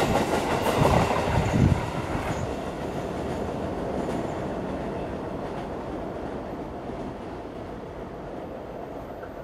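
Electric commuter train passing close by and running off across a steel truss bridge: a loud rush with a few heavy rail-joint clacks in the first two seconds, then a rumble that slowly fades as it draws away.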